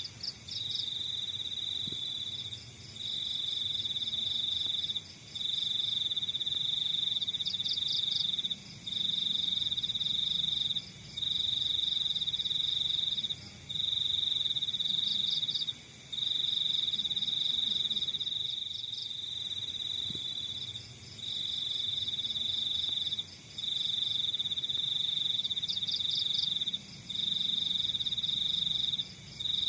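Crickets chirping: one insect trills loudly and steadily at a high pitch in long runs of two to four seconds, broken by short pauses, while fainter rapid chirps from other insects come and go above it.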